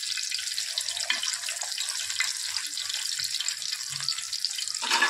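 Chapli kebabs shallow-frying in hot oil in a wide pan: a steady sizzle full of fine crackles. A short louder noise comes just before the end.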